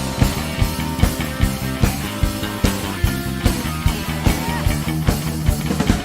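Instrumental break of a rock-style worship song: a steady drum beat over bass and guitar, with no singing.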